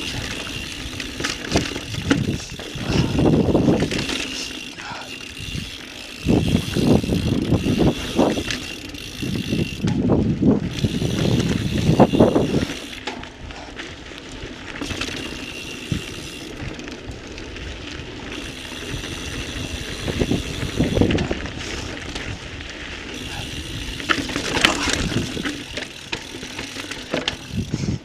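2017 Intense Recluse full-suspension carbon mountain bike ridden over a dirt trail: tyres rolling and the frame and drivetrain rattling, with irregular louder jolts as it hits rough ground.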